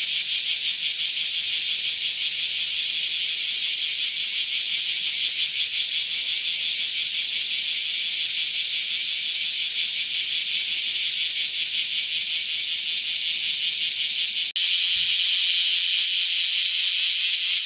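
Cicada song: a loud, high, rapidly pulsing buzz that breaks off for an instant about three-quarters of the way through, then carries on.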